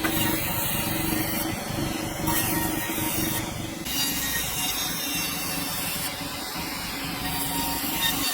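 Sawmill blade cutting through a dense hardwood log: a steady machine hum under a continuous rough sawing noise.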